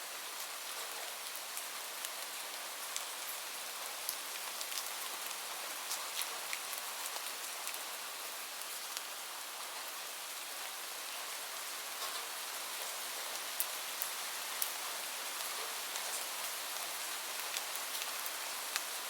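Steady gentle rain, a soft even hiss, with scattered sharp clicks and crackles throughout, a few louder ones near the end.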